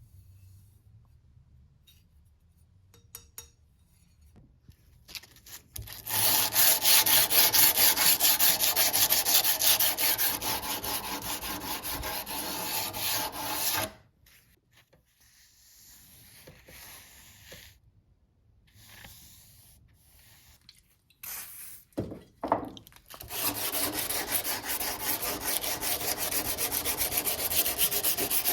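Hand sanding during knife making: rapid back-and-forth rubbing strokes. A long spell of strokes starts about a fifth of the way in and stops about halfway. After a quieter stretch with a few scattered scrapes, the strokes resume and keep going near the end.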